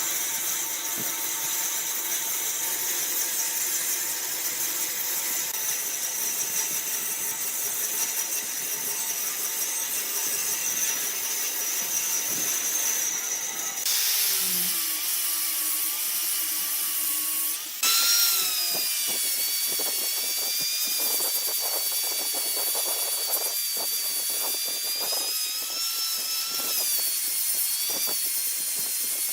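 Woodworking power tool running as it cuts wood, a steady machine noise. The sound changes abruptly twice, about 14 and 18 seconds in, and after that a wavering whine runs on.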